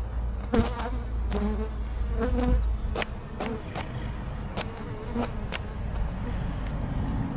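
Honeybees buzzing around an open hive, single bees flying close past the microphone so their hum swells, bends in pitch and fades. A few sharp clicks are heard among the buzzing.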